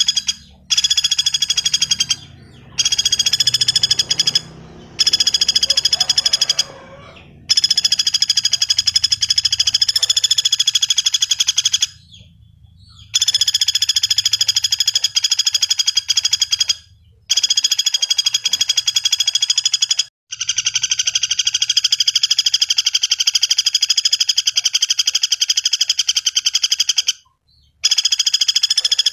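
Common flameback woodpecker (pelatuk bawang) calling: long, rapid, rattling trills, about eight of them, some lasting several seconds, separated by short pauses.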